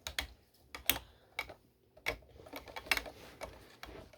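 3D-printed Beyblade spinning tops clashing in a plastic stadium: a string of irregular sharp clicks and knocks as the tops collide, with a faint scraping whir between hits.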